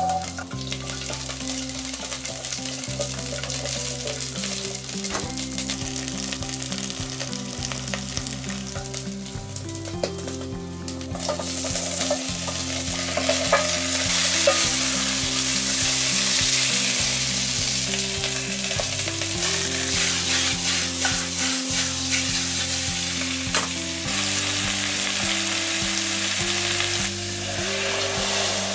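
Pork belly pieces frying with garlic, ginger and chili in a stainless steel pot, sizzling steadily. The sizzle grows louder about twelve seconds in.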